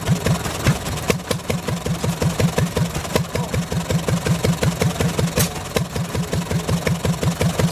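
Antique Collis gas engine running steadily, its exhaust beating evenly at about four to five beats a second. There is one sharp click about five seconds in.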